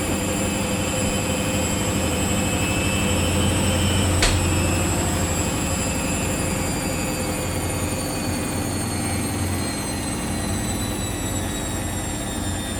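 Samsung washing machine running its Daily Wash 30 cycle: a steady drum-motor hum with high whining tones that fall slowly in pitch, and one sharp click about four seconds in.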